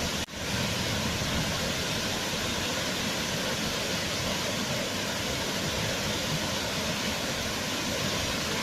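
Waterfall: water falling and splashing with a steady, even rush. It dips for an instant just after the start, then carries on unchanged.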